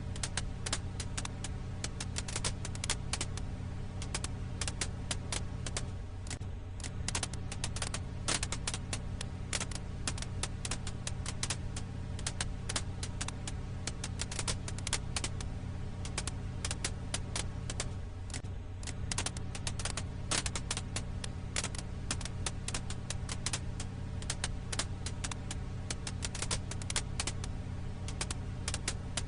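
Firewood crackling in a campfire: dense, irregular crackles and pops over a steady low hum.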